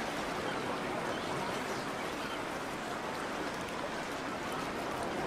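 Steady, even wash of outdoor water noise.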